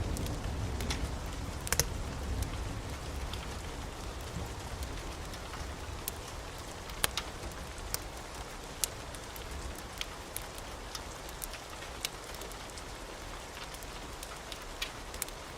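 Steady rain with scattered sharp crackles from a wood fire. The low rumble of thunder dies away over the first few seconds.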